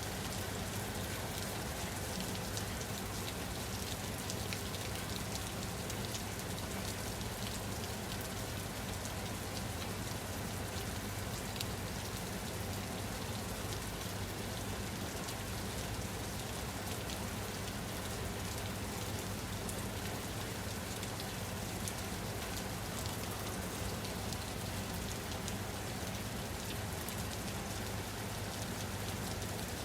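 Steady rain falling on a surface, a dense even hiss with many fine individual drop patters.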